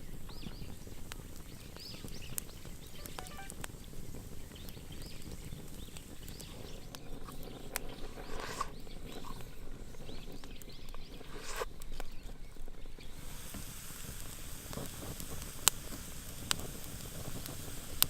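Wood campfire crackling and hissing, with scattered sharp pops; one louder pop comes a few seconds before the end.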